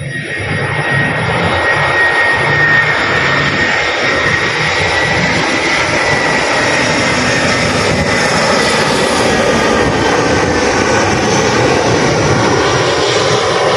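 Jet airliner passing close: loud, steady engine noise with a high whine, building over the first second or so.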